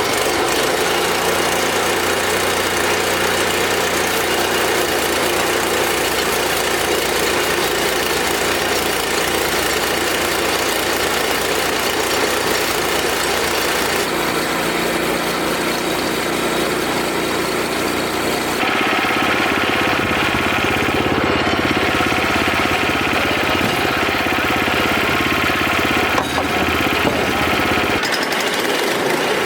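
Wood-Mizer LX25 band sawmill running, its engine driving the band blade through a cherry log with a steady, loud sound that changes in tone about two-thirds of the way through.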